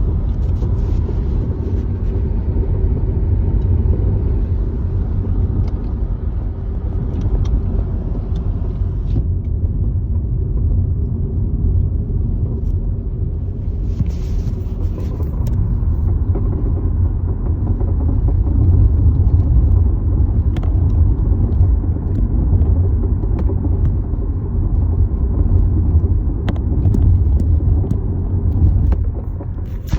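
Honda Accord (CU2) in motion: a steady low rumble from the car on the road, with scattered faint clicks and a brief hiss about fourteen seconds in. The rumble carries an abnormal noise from the right-front suspension whose cause the owner does not know.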